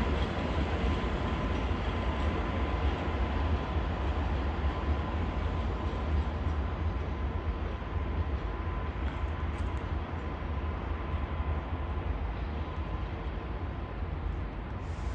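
ET22 electric freight locomotive running during shunting moves: a steady low rumble with a thin steady whine over it, easing off slightly toward the end.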